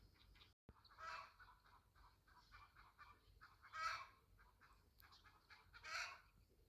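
Domestic fowl calling: three short honking calls about two seconds apart, with fainter short sounds between them.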